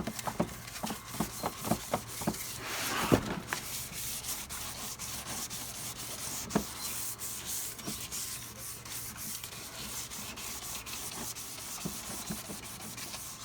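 Wet-and-dry abrasive paper being rubbed by hand back and forth over a vehicle's rear bumper in quick strokes, a steady rasping scuff. It is taking the shine off the bumper's top layer. The strokes are more separate in the first few seconds, then run together into continuous rubbing.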